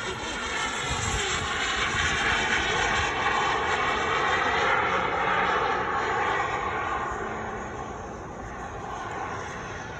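Radio-controlled model jet flying past, its engine sound growing to its loudest about halfway through and then fading as it moves away.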